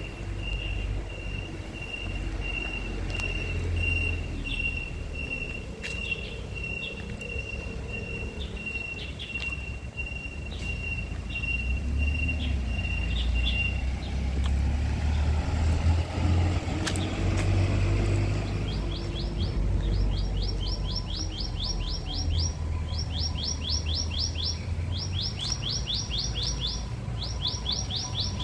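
A high-pitched pulsing beep repeats rapidly for roughly the first half, then stops. From about two-thirds of the way in, a bird sings in groups of rapid high trills. A steady low rumble runs underneath.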